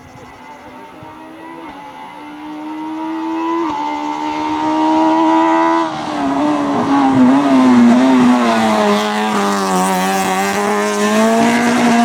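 Citroën AX rally car's four-cylinder engine approaching and getting louder, its revs climbing for several seconds. It then drops to a lower, wavering note as the car comes closest and is loudest.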